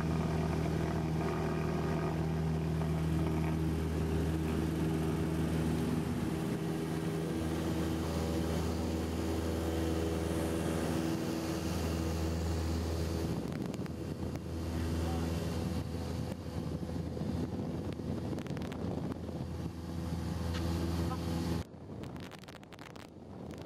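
Cessna 172SP's four-cylinder Lycoming engine running steadily at full takeoff power during the takeoff roll and climb-out. About 22 seconds in, the engine sound cuts off suddenly, leaving a quieter rushing noise.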